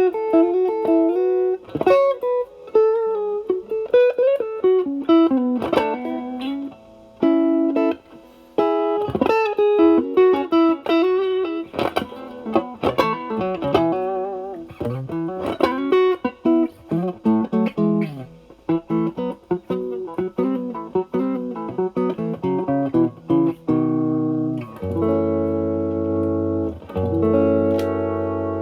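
Fender Stratocaster with single-coil pickups played through an Ibanez Tube Screamer Mini overdrive pedal, drive at 12 o'clock, into a Marshall Valvestate amp's clean channel: a mildly overdriven electric guitar playing improvised single-note lead lines with string bends, then ringing chords for the last few seconds.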